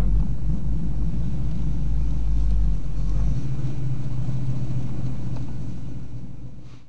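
TVR Griffith V8 engine running at low speed with a steady, low rumble, heard from inside the car. The deepest part of the rumble eases about three seconds in, and the sound fades out at the very end.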